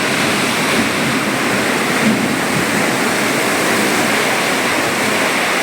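Heavy rain pouring down in strong wind, a loud steady rush of noise with no let-up.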